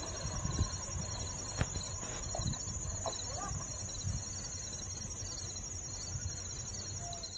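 Insects chirping steadily: a fast high-pitched pulsing trill, with a second, slightly lower chirping that comes and goes, over a low outdoor rumble. A single click sounds about a second and a half in.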